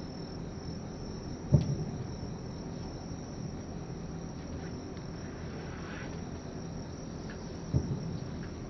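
Two distant aerial firework shells bursting, each a dull boom with a short rumbling tail, one about a second and a half in and one near the end. Under them, night insects trill steadily.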